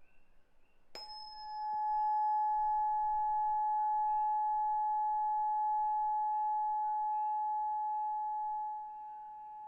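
An 852 Hz Solfeggio tuning fork is struck about a second in, giving a brief high clang. It then rings as a single steady pure tone that softens slightly near the end.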